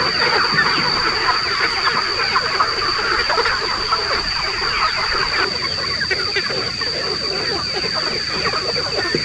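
A large flock of chickens calling at once: a dense, overlapping chatter of short clucks and cheeps, over a steady high-pitched tone.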